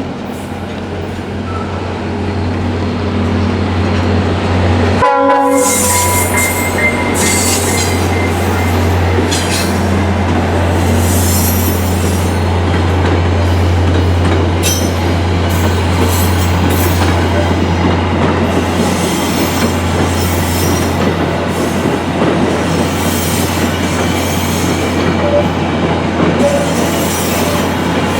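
Diesel-hauled train passing close by, getting louder over the first few seconds and then running past steadily, with a low engine drone under repeated wheel squeals and clatter on the rails.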